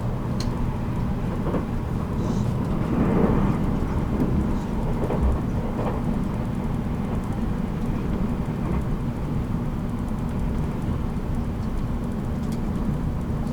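Running noise of a JR Kyushu 783 series electric train, recorded in motor car MoHa 783-13 at speed: a steady low rumble with a few short clicks and knocks from the wheels and track.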